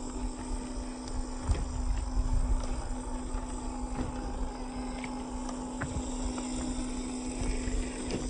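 Radio-controlled off-road car driving over rocks: scattered knocks and clatters of the wheels and chassis on stone over a steady hum and a low rumble.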